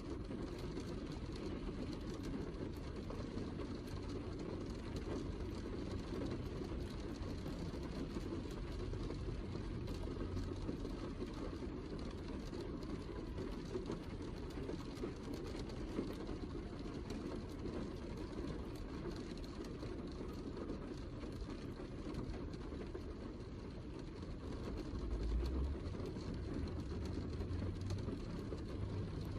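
Heavy rain falling steadily, a dense mass of drops over an even hiss. A low rumble swells briefly near the end.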